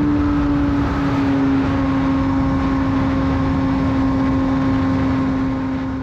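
Suzuki GSX-R 600's inline-four engine through a full Yoshimura exhaust, holding steady high revs after a hard pull, its pitch easing slightly lower, with heavy wind rush. The sound fades out near the end.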